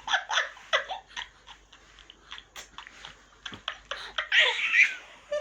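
A person laughing in quick repeated pulses that fade out within the first second. Soft clicks follow, then a short breathy burst of laughter about four seconds in.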